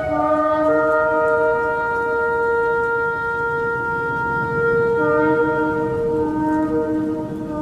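Shofar blown in a long held note that steps between a higher and a lower pitch, the lower note joining about five seconds in.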